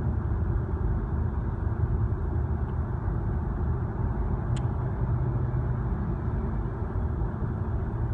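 Steady road and engine noise heard inside a moving car's cabin, a low even rumble. One short click about four and a half seconds in.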